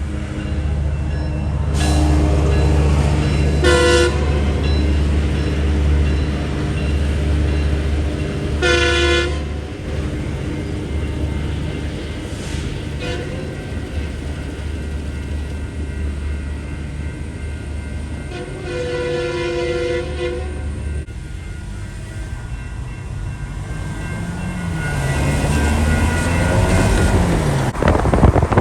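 Metrolink commuter train's diesel locomotive rumbling heavily while sounding its multi-tone air horn in four blasts, the last the longest.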